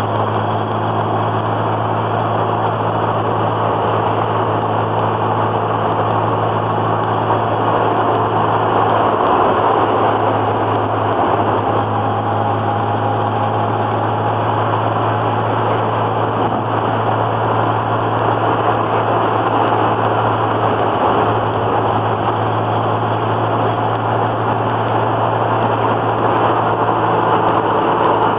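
Twin-turbo Datsun Z-car heard from inside the cabin while driving: a steady low engine drone over an even hiss of road noise.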